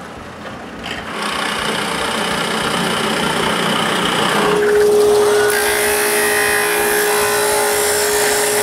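Power drill running as it bores dowel holes in birch boards. About halfway through, the motor settles into a steady hum with a brighter, higher whine over it.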